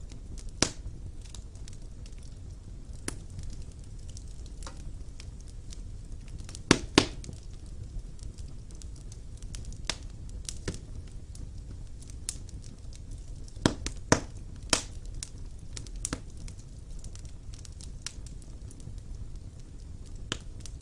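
Fire burning in a fireplace, crackling with scattered sharp pops over a low steady rumble. The loudest pops come in quick pairs about seven seconds in and again around fourteen seconds.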